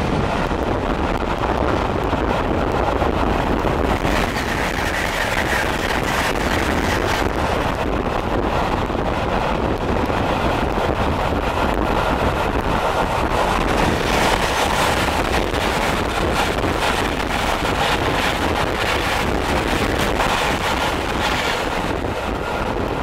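A steam-hauled train at speed heard from an open carriage window: a steady loud rush of wheels on rail and air, with wind buffeting the microphone. About halfway through, an electric express train passes on the next line.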